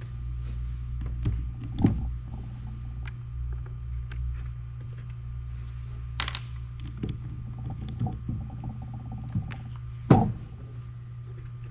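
Scattered clicks, taps and knocks of Onewheel parts being handled and set down during disassembly, over a steady low hum. The loudest is a single knock about ten seconds in, with a smaller one about two seconds in.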